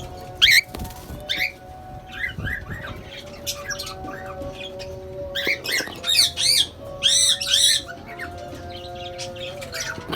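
Cockatiels chirping and calling, short high calls scattered throughout, with a run of loud, repeated arching calls about six to eight seconds in.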